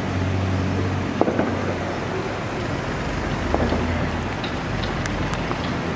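Car engines running at low revs in a slow-moving queue of traffic, a steady low hum over a general outdoor noise. A few brief sharp sounds stand out, about a second in and again past the middle.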